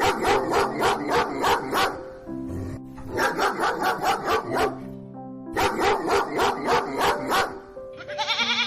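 A dog barking in rapid runs, about five barks a second, in three bursts with short pauses between, over background music with held notes. Near the end a brief wavering animal call starts.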